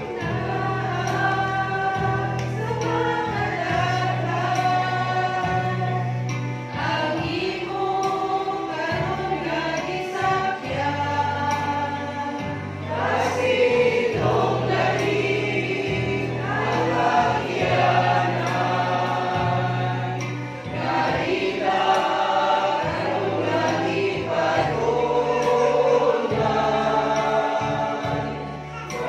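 A mixed choir singing a gospel hymn in harmony over a steady bass accompaniment.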